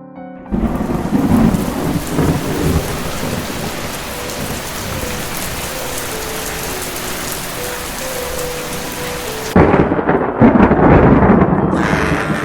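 Thunderstorm: rain falling steadily, with thunder rumbling as it begins about half a second in and a second, louder crash of thunder near the end.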